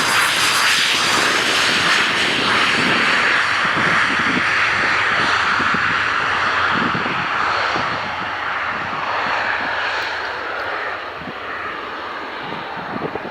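Cessna 510 Citation Mustang's twin Pratt & Whitney PW615F turbofans at takeoff power, a steady jet roar with a thin high whine near the start. The roar grows fainter over the second half as the jet moves away.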